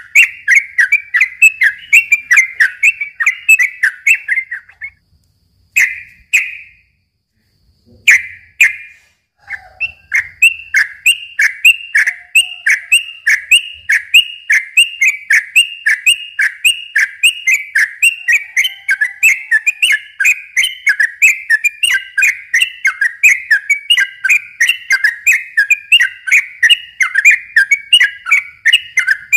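Yellow-vented bulbul (trucukan) singing a long rapid series of repeated whistled chirps, about three a second. A few seconds in, the song breaks off for about five seconds, with only two short phrases in the gap.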